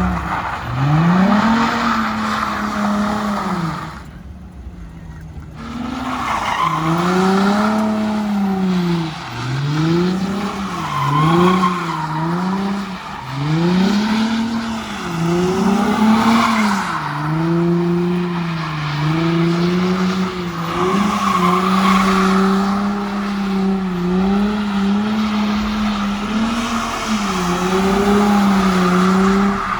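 A car engine revved hard and repeatedly, its pitch rising and falling every second or two as the tyres squeal through a drift. Near the end the revs hold steadier and high while the squeal goes on.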